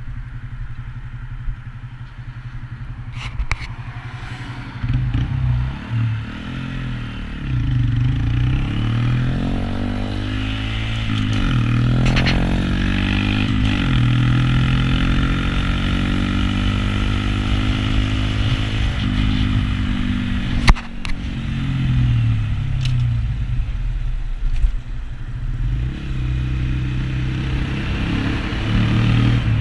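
Honda Grom's 125cc single-cylinder engine running while riding, revving up and dropping back several times as it goes through the gears. A sharp knock about two-thirds of the way through.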